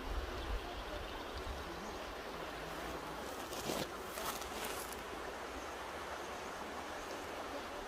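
Mountain river rushing steadily, with a brief brighter splash of water about halfway through.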